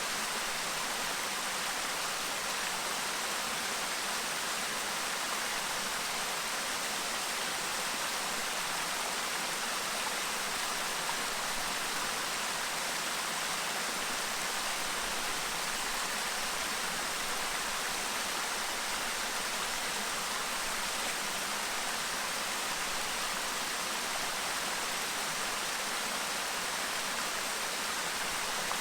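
Clear stream babbling steadily, an even rush of running water.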